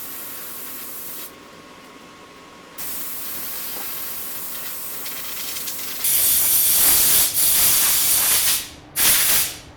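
Compressed-air blow gun hissing, blowing sanding dust off a freshly sanded primer-surfacer panel before painting. A steady hiss stops for a moment, then two loud blasts come about six seconds in and again near the end.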